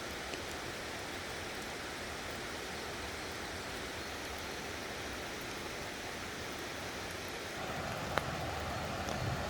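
Steady even hiss of outdoor water after spring rain, growing fuller with a low rumble about three-quarters of the way through, with a single sharp tick shortly after.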